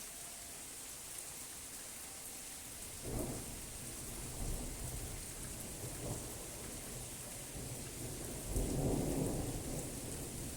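Steady rain hiss with thunder rolling in about three seconds in, a low rumble that keeps going and swells to its loudest near the end.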